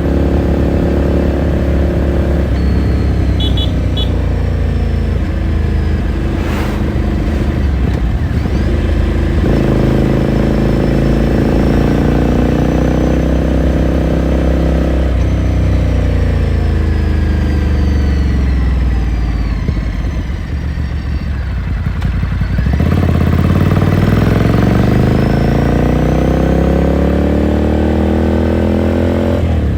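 Ducati Scrambler Sixty2's 399 cc air-cooled L-twin heard onboard: it runs under steady throttle, drops in pitch twice as the throttle is rolled off, then climbs steadily in pitch as it accelerates through the last quarter. A short click near a quarter of the way in.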